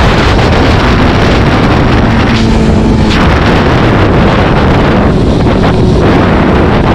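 Loud, steady wind noise buffeting the microphone over a vehicle engine running underneath, as heard riding at speed.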